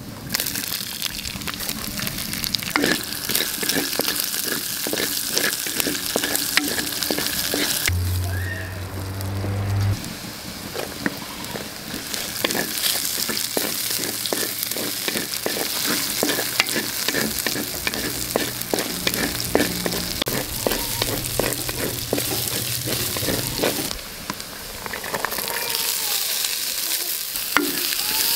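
Chopped onion, then diced carrots, sizzling in hot oil in an earthenware pot, stirred with a wooden spatula that scrapes and taps against the pot again and again. About a third of the way in, a low hum sounds for about two seconds.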